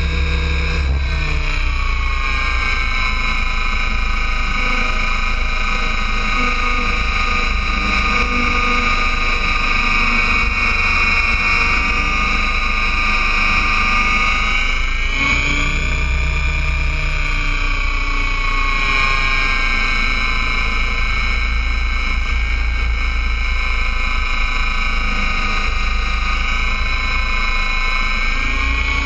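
Align T-Rex 800 RC helicopter in flight: the steady high whine of its drive and rotor, dipping and climbing again in pitch about fifteen seconds in, over a low rumble of wind on the microphone.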